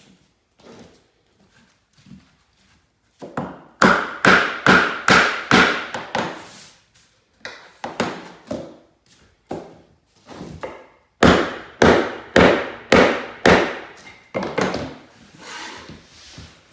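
Hammer blows on wood in two quick runs of about three strikes a second, each blow sharp with a short ring. Between and before the runs there are softer knocks.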